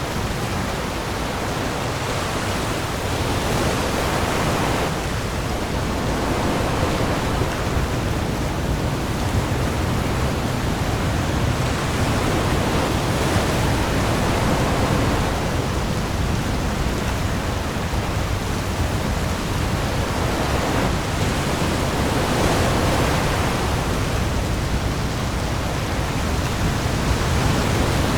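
Heavy rain pouring onto the sea as a dense, steady hiss, with waves swelling and washing in every several seconds over a deep, steady rumble.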